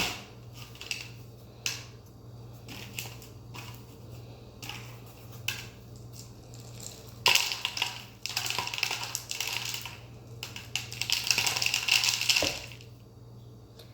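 Bird seed being poured over a peanut-butter-coated cardboard tube: scattered small ticks of seed at first, then two longer stretches of grains rattling and pattering down, starting about seven and eight and a half seconds in.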